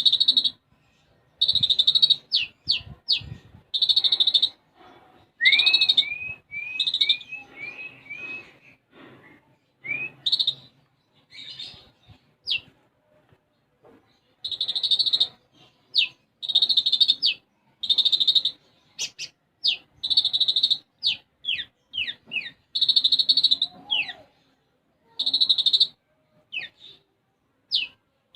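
A konin songbird singing in a rapid, varied run. Short buzzy notes repeat with quick falling whistles between them, and about five seconds in comes a series of six short rising chirps. The song is laced with imitations of Eurasian tree sparrow calls.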